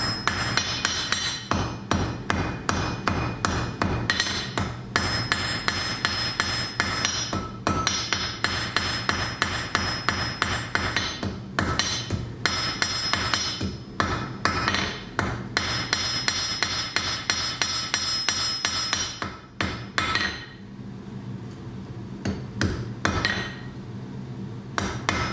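Blacksmith's hand hammer striking a small piece of hot iron on an anvil, forging the hanging loop of a pendant: a steady run of blows, several a second, each with a metallic ring. The hammering stops about twenty seconds in, with a few more blows near the end.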